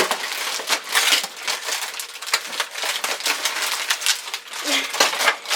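Cardboard box and its taped packaging being torn and wrestled open, a string of irregular crinkling, tearing and crushing noises.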